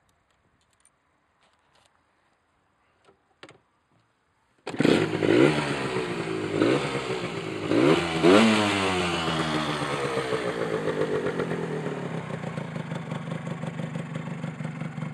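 A 1993 Honda NS125R's two-stroke single-cylinder engine catching suddenly about four and a half seconds in, after a few faint clicks. It is revved several times in quick blips, then the revs fall away and it settles to a steady idle.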